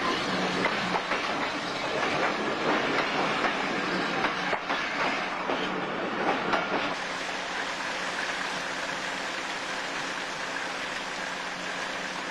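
Steam-hauled train's wagons and coaches passing close by, their wheels clattering over the rail joints. About seven seconds in this gives way to a steadier rumble with a low hum.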